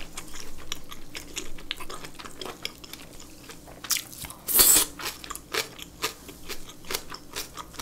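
Close-miked eating sounds of boiled pork belly wrapped in sour kimchi being bitten and chewed: many small wet clicks of chewing, with one louder bite about four and a half seconds in as the wrap goes into the mouth.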